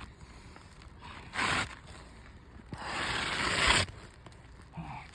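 Scraping on asphalt roof shingles: a short scrape about a second and a half in, then a longer scrape lasting about a second that grows louder and stops abruptly.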